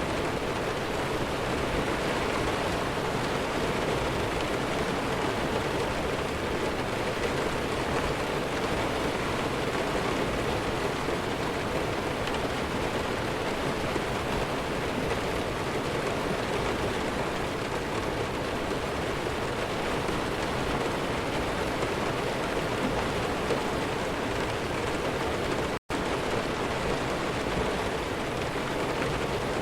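Steady rain falling, an even unbroken hiss with no thunder, that cuts out for an instant about four seconds before the end.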